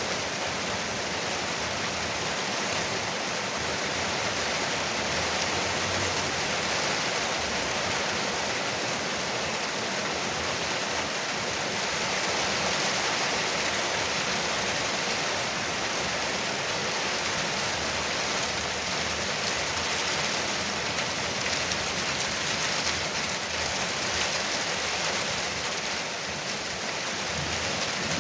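Heavy rain falling steadily on a veranda roof, a dense, even patter with no breaks.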